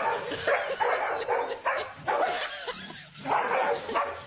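A dog barking in a run of short, quick barks, about two a second, with a brief pause near the end.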